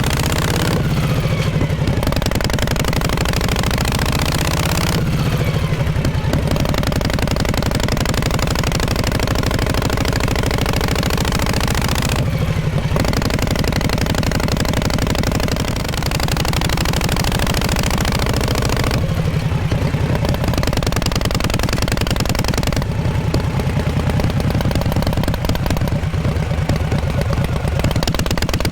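1948 Harley-Davidson Panhead V-twin's exhaust running, its pitch rising and falling several times with the throttle.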